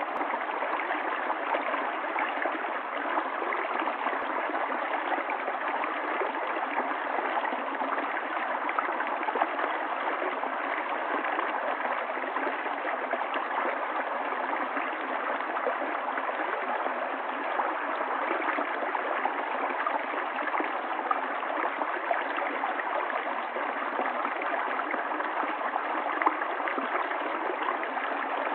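Running water of a stream, a steady, even rushing and gurgling that never pauses.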